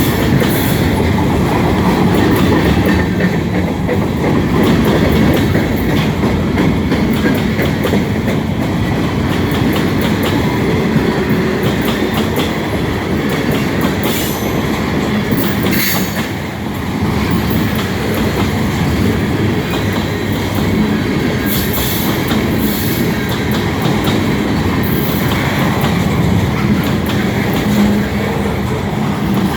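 Long freight train's cars rolling past, wheels clicking over the rail joints with a steady rumble and a few brief high wheel squeals.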